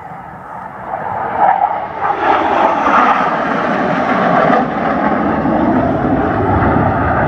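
Aircraft flying over: a loud engine roar that swells in about a second in and stays loud.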